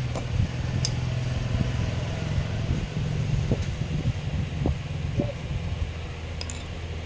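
A steady low mechanical hum with a few light clicks and taps over it.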